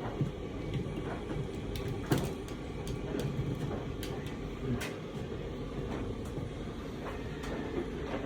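Scattered clicks and knocks from handling the blower and its extension cord, over a steady low rumble; the sharpest knock comes about two seconds in.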